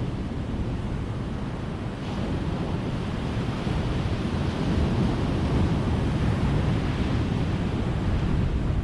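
Ocean surf: a steady wash of breaking waves that swells about two seconds in and grows louder toward the end.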